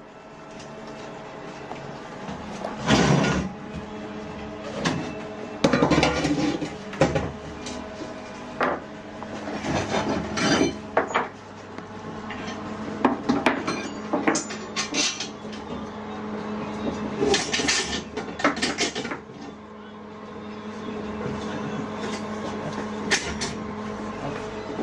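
Irregular metallic clinks and knocks of tools and parts being handled during motorcycle engine work, over a steady hum.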